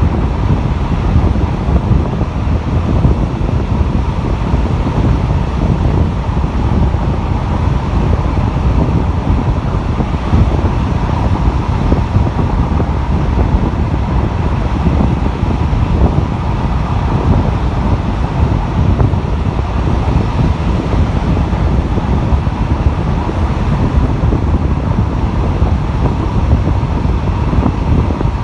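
Steady rush of wind at an open window of a moving RHN diesel railcar, over the train's running noise.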